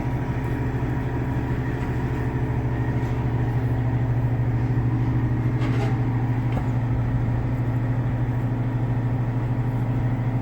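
Diesel engine of an 80-ton mobile crane running steadily with a low, even drone.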